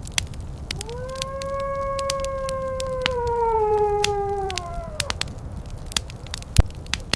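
Wood fire crackling and popping with sharp snaps, while a wolf gives one long howl that rises, holds steady and then slides down and fades away about five seconds in.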